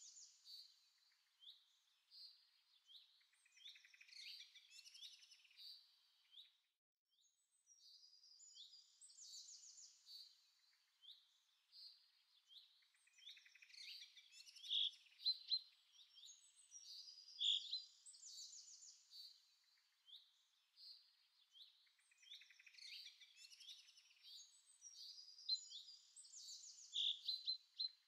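Small birds singing and chirping in repeated quick twittering phrases, with a short pause about seven seconds in.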